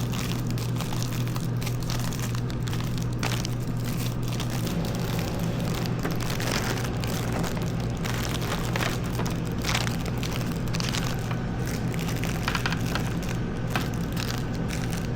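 A motor running with a steady hum while something crackles and crunches irregularly, with many short cracks throughout.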